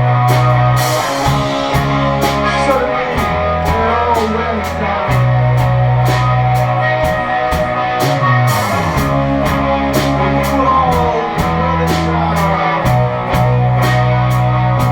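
Live rock band playing: electric guitars over long held bass notes, with drums keeping a steady beat on cymbals.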